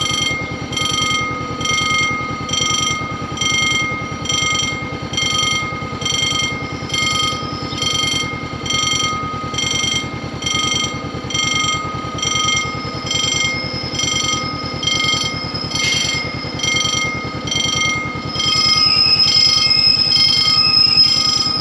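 Honda CB500F parallel-twin with an Akrapovic exhaust running steadily, with a rhythmic electronic beeping about twice a second over it. The sound gets louder about three seconds before the end.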